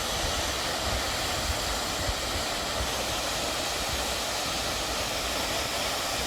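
Steady rushing roar of a waterfall, an even hiss with no breaks, with wind rumbling on the microphone underneath.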